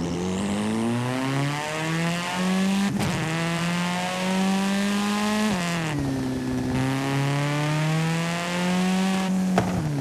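Driving-game car engine accelerating hard through the gears: its pitch climbs steadily, then drops sharply at each upshift, about three seconds in, about five and a half seconds in, and again near the end.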